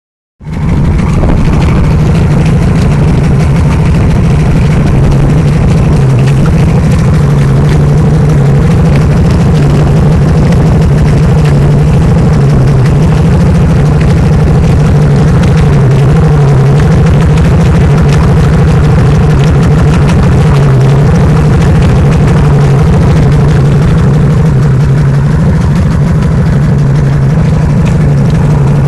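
Yamaha 225 HPDI two-stroke V6 outboard motor idling steadily and loudly, while it leaks water and exhaust from below the cowling.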